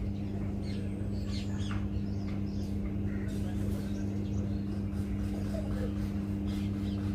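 Birds chirping in short, quick calls, over a steady low hum.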